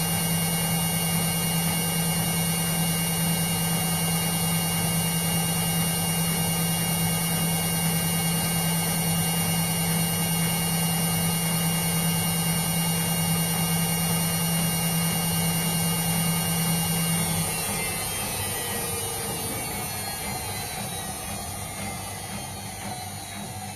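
Indesit washing machine spinning at a steady speed with a strong hum and motor whine, then the motor cuts out about 17 seconds in and the drum coasts down, its pitch falling and the sound fading.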